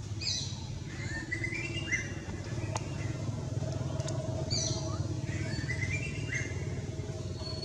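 A songbird singing the same short phrase twice, about four seconds apart: a few high falling notes, then a run of notes stepping upward. A steady low rumble runs underneath.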